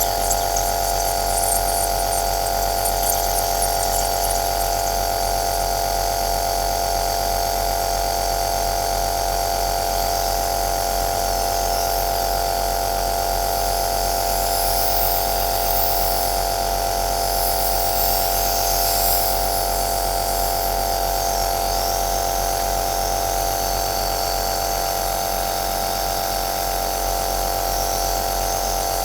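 Compressor nebulizer running steadily: a constant motor hum with a strong steady tone and a hiss of air above it, unchanging throughout.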